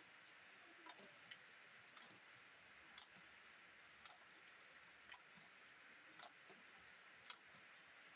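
Faint, steady rain hiss with single drops ticking through it about once a second.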